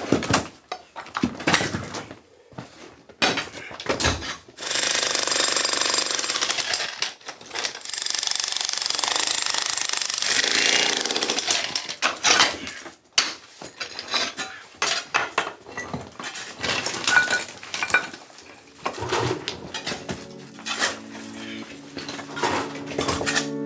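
Small jackhammer breaking out rock in bursts, with long runs and short stops between them. Music comes in near the end.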